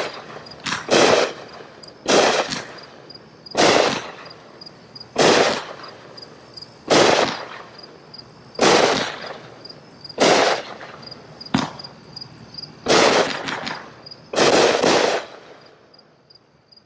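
Raccoon Fireworks 'Ammo Box' 20-shot, 500-gram consumer fireworks cake firing its shells one after another, a loud burst about every second and a half, with the last two close together near the end before the firing stops. Crickets chirp steadily in the background.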